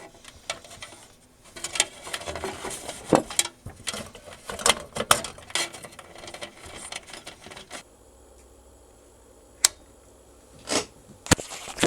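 Irregular clicks and light clatter of the Sony CD player's loose circuit board and metal chassis being handled. It goes quiet about two thirds of the way through, leaving a faint steady hum and a few single clicks.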